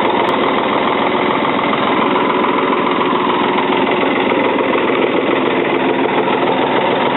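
Ford 555 backhoe's diesel engine idling steadily at low speed, warming up just after its first start in over two years.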